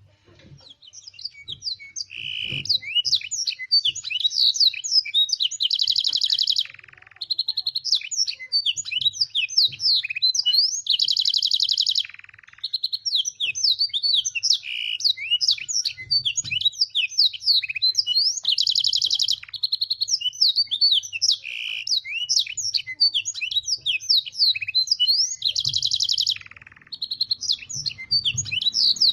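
A domestic canary sings a long, fast song taught with blackthroat phrases. Quick rising and falling whistled notes are broken by buzzy rolling trills, with three brief pauses along the way.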